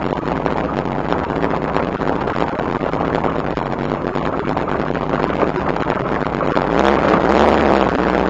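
Shelby Cobra's V8 engine idling with a steady low rumble. About seven seconds in it grows louder as the car creeps forward.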